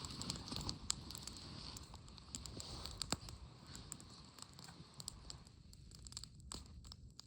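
Faint rustling with many scattered small clicks and ticks, growing quieter over the last couple of seconds.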